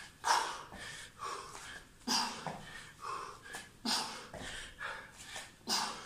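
A man's sharp, hissing exhalations pushed out with each punch while shadowboxing hooks, about one a second, with a stronger breath every second one.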